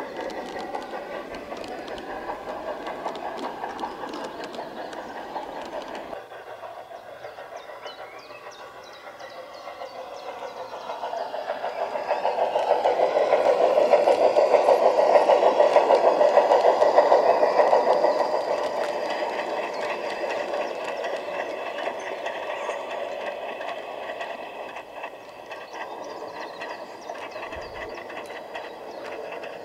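Large-scale garden-railway model train running along its outdoor track, wheels rumbling and clicking over the rails; the sound changes abruptly about six seconds in, then swells as the train passes close in the middle and fades away again.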